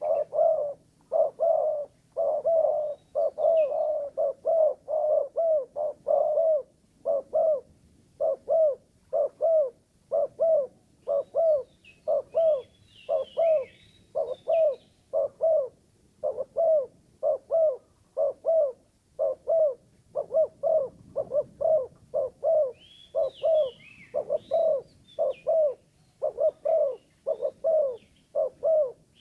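Spotted dove (terkukur) lure call: a long, steady run of short low coo notes, about two a second with brief pauses, the kind of calling used to draw wild doves in. Twice, about midway and near the end, small birds chirp high over it.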